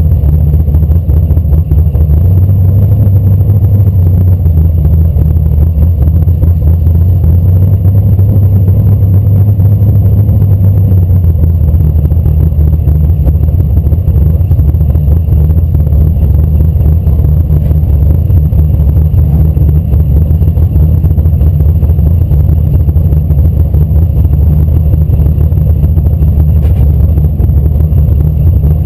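Drag car's engine idling with a steady low rumble, loud and close. The engine is held at idle while the car waits at the start.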